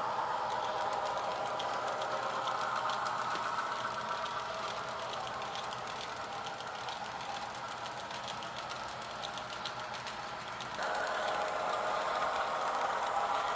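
Model Missouri-Kansas-Texas PA diesel locomotive running along the track with passenger cars: a steady mechanical drone with faint rapid ticking, suddenly louder about eleven seconds in.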